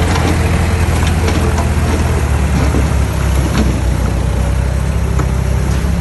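Heavy diesel engine of earthmoving machinery running steadily with a deep low rumble, with a few light clicks and clanks scattered through it.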